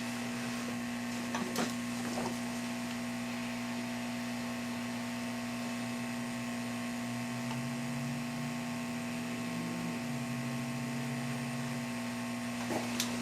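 Steady electrical hum from bench equipment: a low drone with several higher steady tones over it, and a couple of faint clicks.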